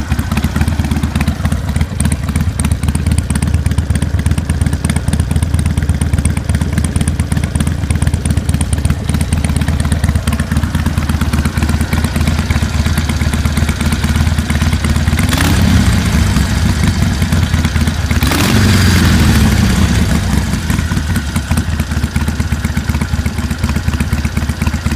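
2015 Harley-Davidson Iron 883's V-twin idling through Wyatt Gatling slip-on mufflers with the baffles in. It is revved twice past the middle, the second rev longer and louder, each time rising and falling back to a steady idle.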